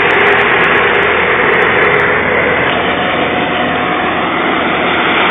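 Tractor engine running steadily while towing a cart, a loud continuous noisy drone.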